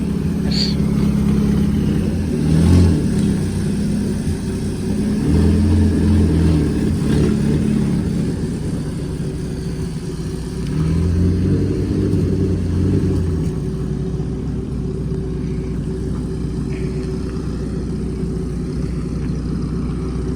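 A straight-piped four-cylinder Chevrolet Cavalier race car engine idles with a low, steady exhaust note. It is blipped up three times: briefly about two and a half seconds in, a longer rev around five to eight seconds, and again around eleven to thirteen seconds. After that it settles back to a steady idle.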